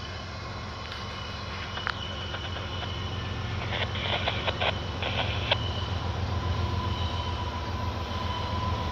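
Approaching diesel freight locomotive: a low engine rumble that grows steadily louder as the train nears, with a short cluster of sharp clicks a little past the middle.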